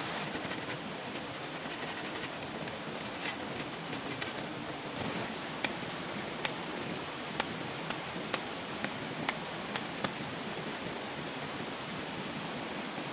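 Steady rushing noise with a string of sharp, irregular clicks or snaps through the middle.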